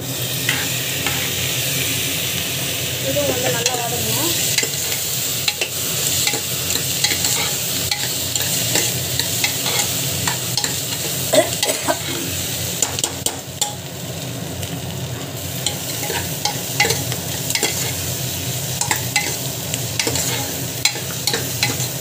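Chopped onions, tomatoes, dried red chillies and split lentils sizzling in hot oil in a pressure cooker pan while a metal ladle stirs, with frequent clicks and scrapes of the ladle against the pan.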